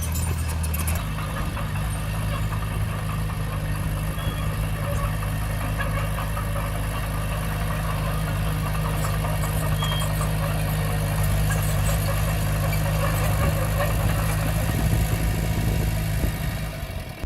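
Komatsu D20P bulldozer's diesel engine running steadily, its note shifting slightly about a second in.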